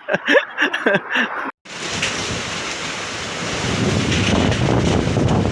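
Strong wind buffeting the microphone, a dense rushing noise heaviest in the low end that grows louder a few seconds in. It follows a short stretch of a man's voice that cuts off abruptly about a second and a half in.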